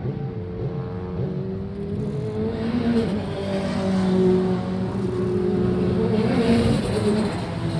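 Historic racing car engines running hard on the circuit, their pitch holding fairly level with small shifts.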